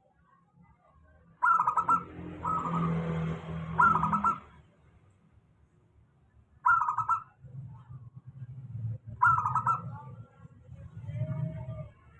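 Local zebra dove (perkutut) cooing: short, rapidly pulsed coo phrases, three close together near the start, then single ones a few seconds apart. This is the steady call used as a lure to get a quiet perkutut to sing. A low background rumble runs under the calls.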